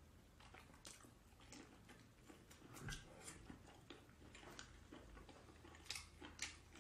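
Close-mic eating sounds: quiet wet chewing with scattered sharp mouth clicks and smacks from eating sauce-covered tentacles, with the loudest clicks about three seconds in and twice near the end.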